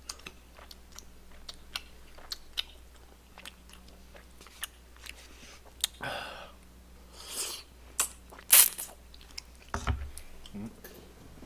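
Close-miked chewing of soft tteokbokki rice cakes and fish cakes: many small wet mouth clicks and smacks, with a few short louder mouth noises about six, seven and eight and a half seconds in, the loudest near eight and a half seconds, and a low thud near ten seconds.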